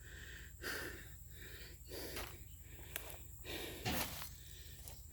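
A person breathing heavily close to the microphone, a breath about every second, with a short click and then a sharper knock a little before the end.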